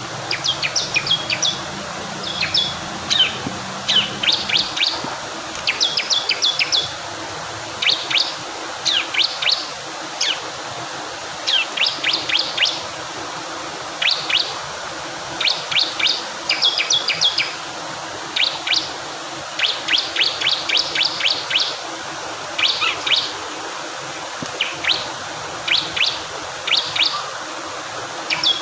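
Male bar-winged prinia singing: bursts of three to six sharp, high chirps every second or two, over the steady rush of flowing water.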